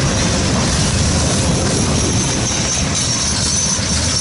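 Open-top hopper cars of a freight train rolling past at close range: a steady rumble of steel wheels on rail. A faint high squeal joins in about three seconds in.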